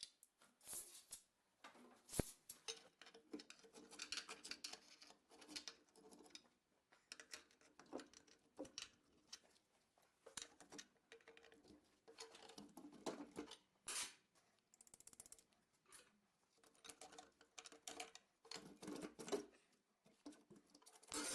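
Faint, irregular clicks, taps and scraping of metal engine parts being handled as the main bearing caps and bearing shells are taken off the block, with a sharper click about two seconds in.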